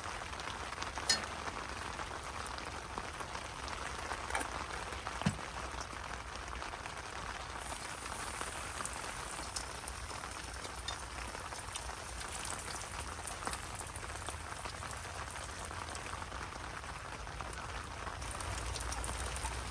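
Steady rain pattering, with a few sharper drop ticks in the first several seconds.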